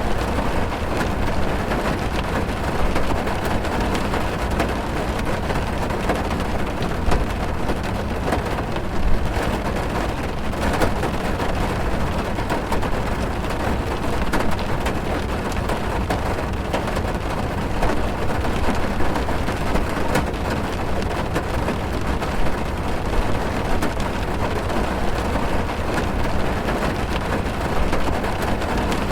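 Heavy rain pattering on a car's roof and windows, heard from inside the car: a steady dense patter of drops over a low rumble.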